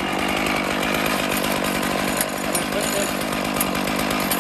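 Stihl MS 461 two-stroke chainsaw running steadily at high revs in an Alaskan chainsaw mill, ripping a slab from a cedar log.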